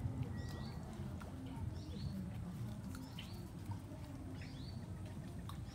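Small birds chirping in the background: short high notes repeated every half second or so, over a low steady murmur.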